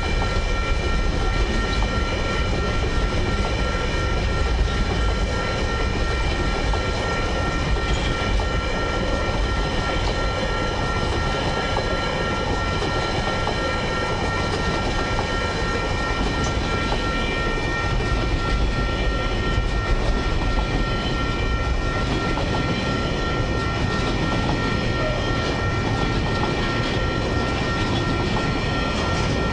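Long freight train of container and log wagons rolling past steadily, wheels rumbling and clacking on the rails, with steady high-pitched ringing tones running throughout.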